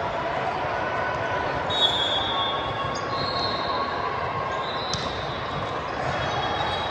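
Volleyball gym during play: a steady hubbub of voices in a large echoing hall, with high squeaks of athletic shoes on the court floor and a sharp hit of the ball about two seconds in, another faint hit near five seconds.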